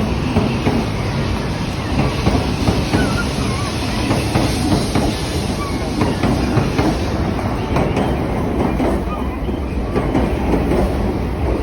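Coupled H5-series and E6-series Shinkansen train pulling out of the platform, its wheels clattering steadily over rail joints and points.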